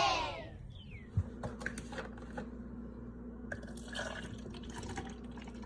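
A cheering crowd sound fades out in the first half second. Then come faint scattered clicks and taps, one sharper knock about a second in, over a steady low hum.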